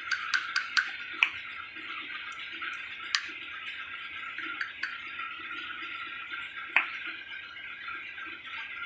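Sharp metallic clicks and clinks of metal parts or tools being handled, several in the first second and a half and single louder ones about three and seven seconds in, over a steady hiss.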